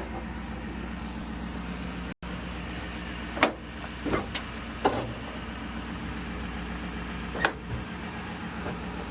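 Diesel truck engine idling with a steady low hum, with four sharp clicks and clunks from the utility body's compartment latches being worked after the master lock is unlocked.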